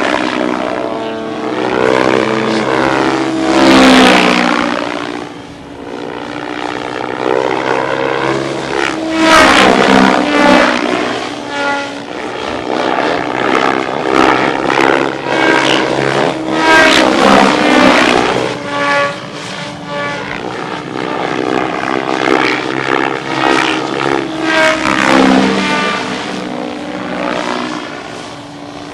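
A 3D-aerobatic RC helicopter in flight. Its rotor and drive whine keep sweeping up and down in pitch and swelling in loudness as it swoops, climbs and flips.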